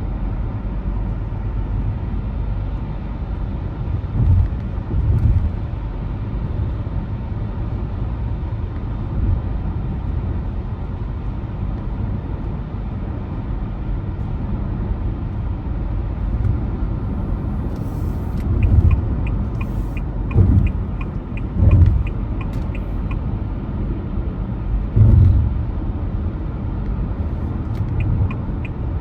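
Car driving on the road: a steady low rumble of engine and tyres, with a few short, louder low thumps. A regular light ticking runs for about five seconds in the second half and starts again near the end.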